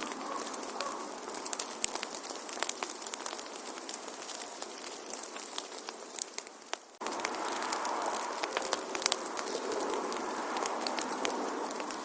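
Wood fire crackling in a fireplace: frequent sharp pops and snaps over a steady soft hiss. About seven seconds in, the sound briefly dips and cuts, then carries on.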